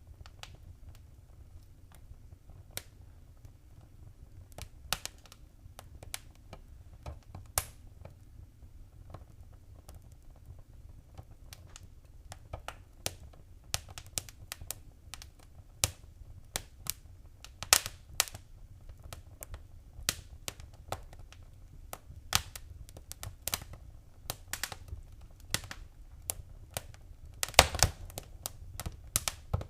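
Wood fire crackling: irregular sharp pops and snaps over a low steady rumble. The pops are sparse at first and come much thicker from about halfway, with a quick run of them near the end.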